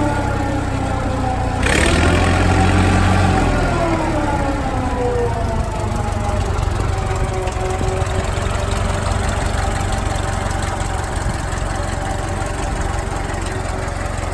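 Massey Ferguson 165 tractor engine running, with a short clatter about two seconds in. Its engine speed rises briefly, then drops back and runs steadily.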